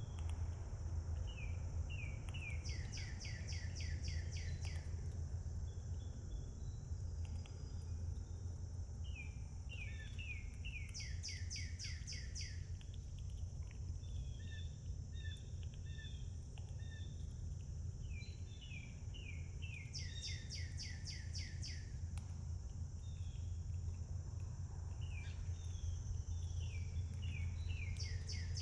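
Songbirds: one bird repeats a fast trilled song phrase about every eight seconds, with short chirps from other birds in between. Under the birds run a steady high-pitched insect drone and a low hum.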